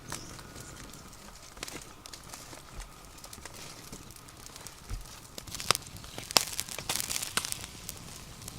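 Irregular crackling and rustling, like dry material being handled or snapping, with sharper, louder snaps in the second half.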